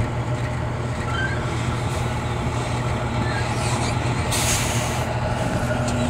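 Truck's diesel engine running steadily at low revs, with a short hiss of air a little over four seconds in.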